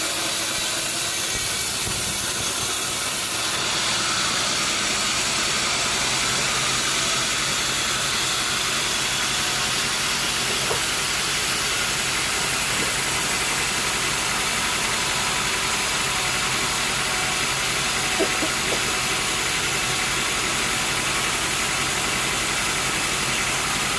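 Sawmill machinery running steadily: an engine-driven drone under a continuous hiss, which grows fuller with a low hum a few seconds in.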